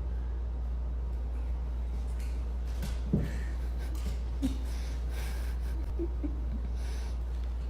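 A dog making a few brief, faint sounds over a steady low hum, the loudest about three seconds in.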